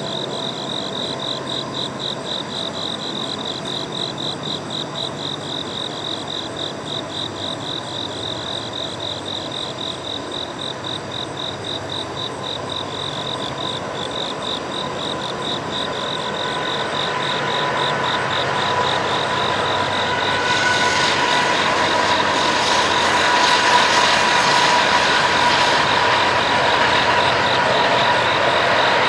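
Night insects chirping in a rapid, steady pulse. From about halfway, the rumble and hiss of an approaching train grows steadily louder, with a steady tone over it.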